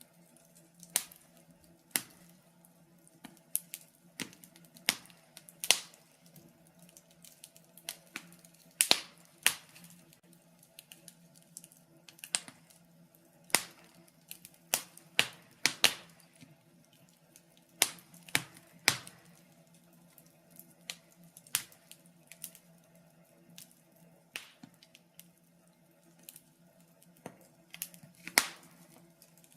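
Wood fire crackling in a fireplace: irregular sharp pops and snaps, one or two a second, some louder than others, over a faint steady low hum.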